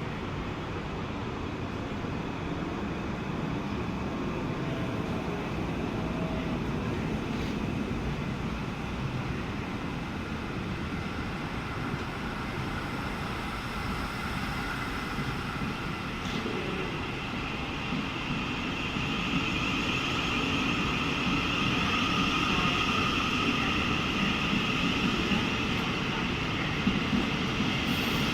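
Train running past, a steady rumble that grows louder about two-thirds of the way through, with a high whine coming in.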